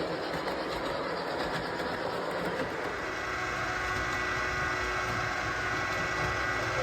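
MTH model of the C&O 2716 Berkshire steam locomotive running on a model railway with cars in tow, making a steady running rumble on the track.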